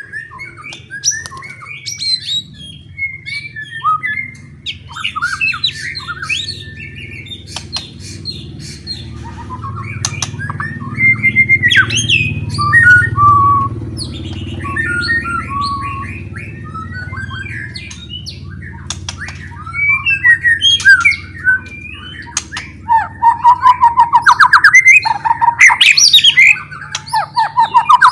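White-rumped shama (murai batu) singing loudly in a varied run of whistled phrases and chattering notes, breaking into fast, loud trills for the last few seconds. A low steady hum runs underneath the song.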